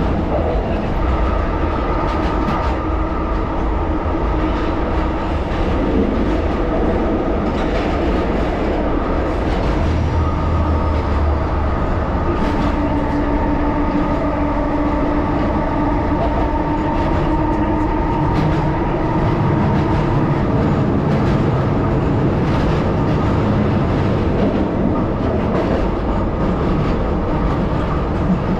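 1938 Tube Stock electric train running on the rails, a steady rumble with a few held whining tones and occasional clicks from the wheels.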